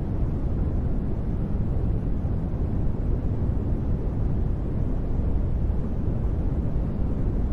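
Steady synthetic sleep noise, sold as white noise, that sounds deep and bass-heavy with little treble hiss. It holds an even level with no changes or sudden sounds.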